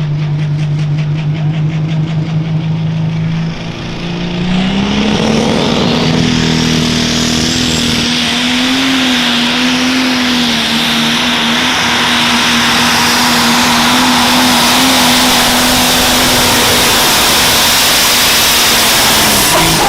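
Turbocharged pro stock pulling tractor's engine revs up about four seconds in and holds high, steady revs under load through the pull, with the noise building as it goes. The engine note then drops sharply right at the end as it comes off the throttle.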